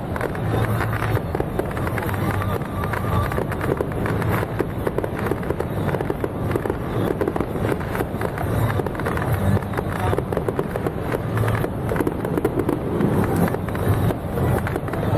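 Fireworks crackling in a dense, unbroken stream of small bangs.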